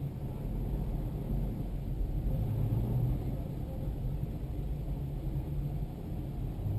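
Diesel tractor engine running steadily under way, a low drone with no change in pitch.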